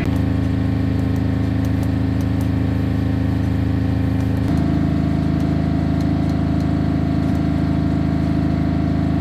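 An engine running steadily at a constant speed. Its note shifts slightly about four and a half seconds in.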